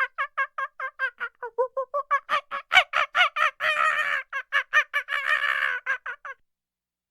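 Domestic fowl calling in a fast run of short, pitched notes, about six or seven a second, that run together into longer calls in the middle and stop abruptly near the end.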